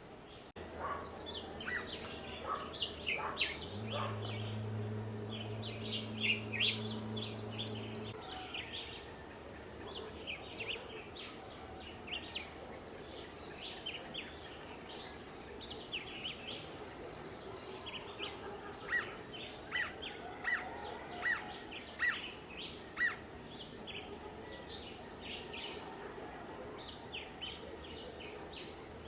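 Birds singing and calling: a high, falling run of chirps repeats every four or five seconds over many shorter chirps, with a steady high thin whine behind them. A low hum runs for about four seconds near the start.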